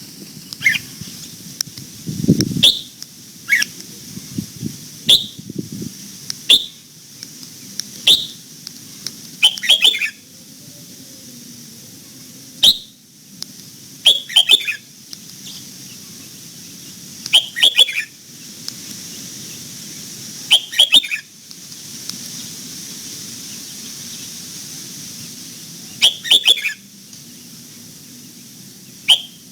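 Red-whiskered bulbul singing short, sharp, clear phrases every one to three seconds, over a steady high hiss.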